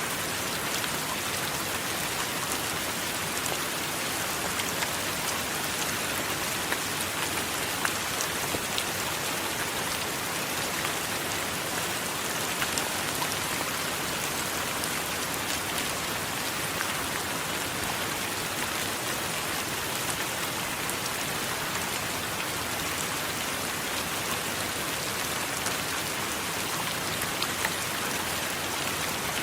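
Steady heavy rain: an even hiss of falling water, with many small drop ticks throughout. No thunder is heard.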